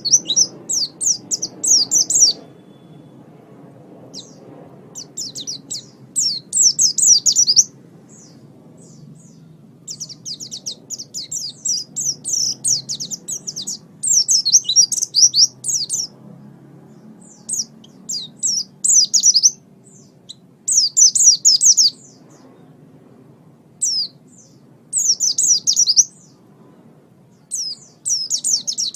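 Pleci (white-eye) singing: bursts of rapid, high twittering song one to two seconds long, repeated about ten times with short pauses between, over a faint low background hum.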